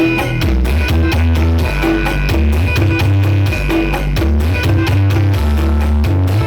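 Loud music with a steady beat and heavy bass notes, played through the NIJ Audio 79 'sound horeg' carnival sound system.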